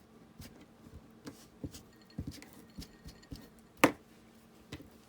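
Small irregular taps and clicks of craft materials being handled on a work table, with one sharp knock a little before four seconds in.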